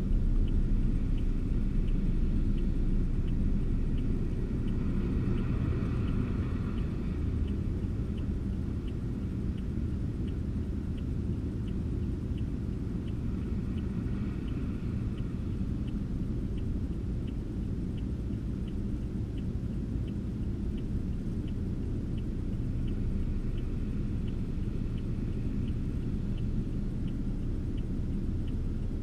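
A car driving, with a steady low rumble of engine and road noise and a light tick repeating evenly, about one and a half times a second.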